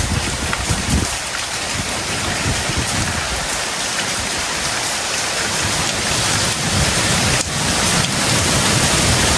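Heavy tropical rain pouring down in a dense, steady hiss. A low rumble sits under it during the first second and comes back near the end.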